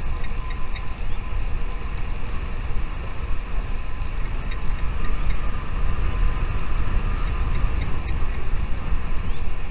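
A steady low rumble with a few faint, very short high peeps in two small clusters, one near the start and one about halfway through.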